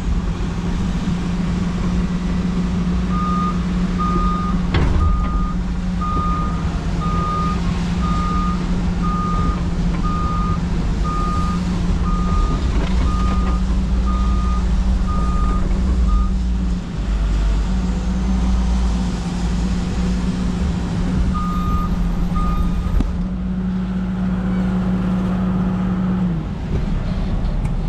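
Heavy diesel engine running steadily at an even pitch, with a backup alarm beeping about one and a half times a second from about three seconds in to about sixteen seconds in and briefly again near twenty-two seconds. A single knock sounds about five seconds in.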